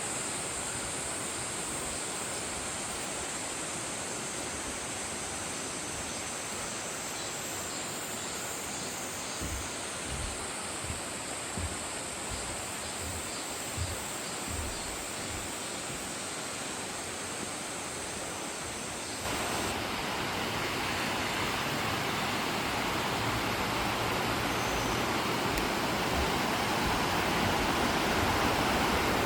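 Mountain valley stream rushing over rocks, a steady wash of water sound that becomes louder and fuller about two-thirds of the way through. A few soft low thumps come in the middle.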